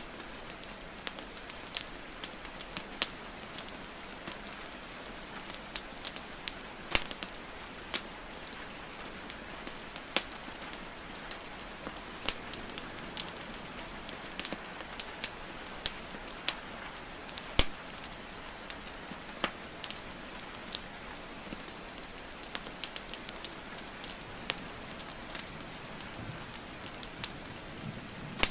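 Wood fire crackling and popping in irregular sharp snaps over a steady hiss of rainfall.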